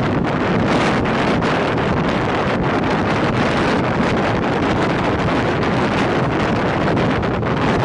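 Steady rush of wind buffeting the microphone over the running noise of a passenger train at speed.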